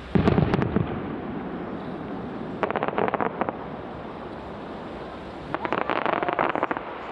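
An aerial firework shell bursting with a deep boom, followed by two separate bouts of rapid crackling, about two and five seconds later, from crackling stars.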